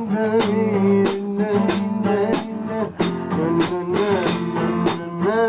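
Guitar music, strummed in a steady rhythm under sustained melody notes that bend in pitch.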